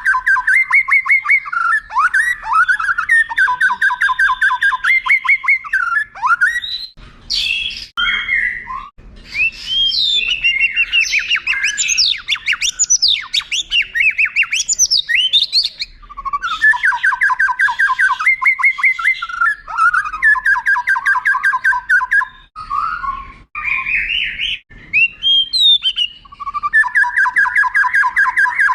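White-rumped shama singing: long, rapid rolling trills of evenly repeated notes alternate with stretches of varied whistled phrases and quick rising and falling glides.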